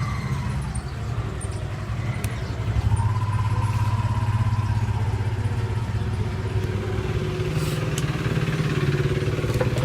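A motor vehicle engine running steadily, a low hum that grows louder about three seconds in and then holds.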